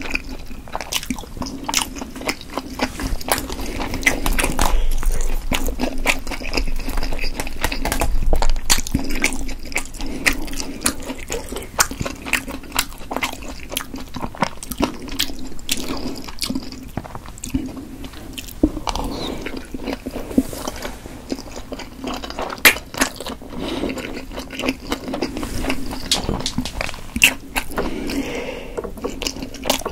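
Close-miked chewing of a chewy steamed potato dumpling: soft, wet mouth sounds with many small sharp clicks.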